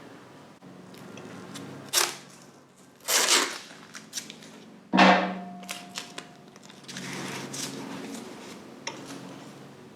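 Tin snips cutting through a motorcycle's sheet-metal fork dress cover: a few sharp snips and clanks with small clicks between, the loudest about five seconds in, followed by a brief metallic ring.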